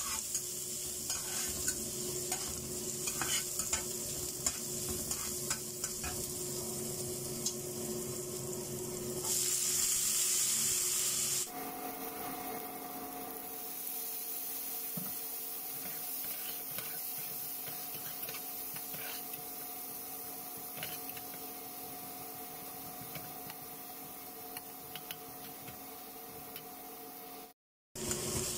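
Diced onion and then potato matchsticks sizzling in oil in a frying pan, stirred and scraped with a metal spatula. The sizzle grows louder and brighter for a couple of seconds around the tenth second.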